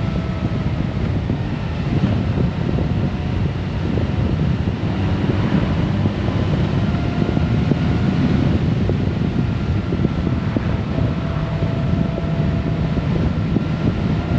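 Steady wind rush over the microphone of a Honda Gold Wing DCT motorcycle riding at a steady speed, with the bike's flat-six engine and tyre noise running underneath as faint tones that drift slightly in pitch.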